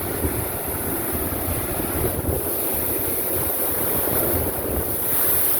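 Heavy ocean surf surging and breaking against a sea cliff, a steady low rumbling wash with wind buffeting the microphone, swelling louder near the end as a big wave hits and throws up a splash.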